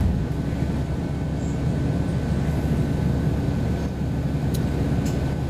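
City bus interior while riding: a steady low rumble of the engine and road noise, with a faint steady high whine and a couple of light clicks near the end.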